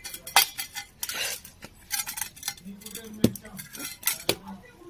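Eggs being beaten in a bowl: a metal utensil clinks and scrapes against the bowl in quick, irregular strokes.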